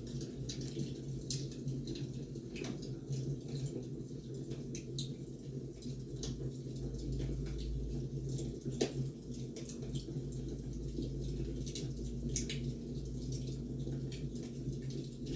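Wood fire crackling: irregular sharp pops and snaps, one louder pop about nine seconds in, over a steady low rumble.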